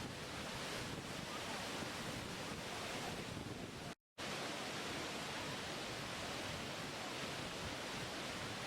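Waterfall rushing steadily, with no rise and fall. About four seconds in it cuts out to dead silence for a fraction of a second, then resumes.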